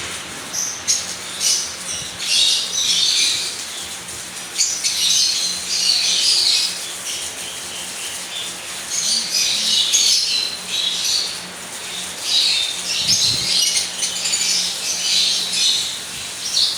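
Lovebirds chattering and squawking in four bouts of rapid, high-pitched calls, with short pauses between them.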